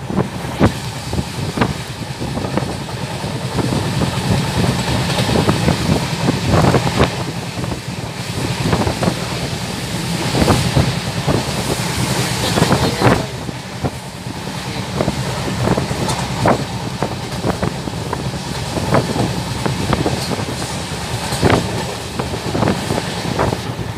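Passenger train coach running at speed, heard through an open window: a steady rumble of wheels on rails, broken by irregular sharp clacks over rail joints, with wind rushing past.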